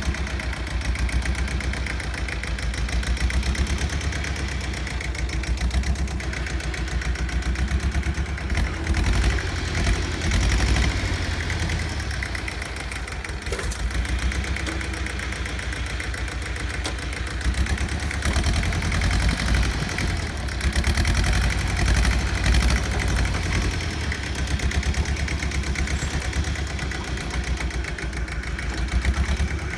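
Bolens G194 garden tractor engine running steadily, its loudness swelling and easing several times as the scraper blade pushes dirt.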